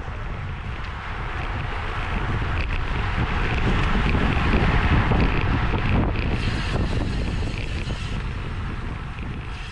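Wind rushing over the microphone of a racing cyclist riding at speed. It builds to its loudest about halfway through, then eases off.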